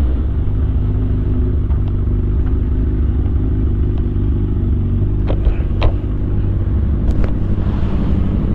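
Yamaha R1's inline-four engine and exhaust running at steady low revs, an even low rumble, with a few short sharp clicks in the middle.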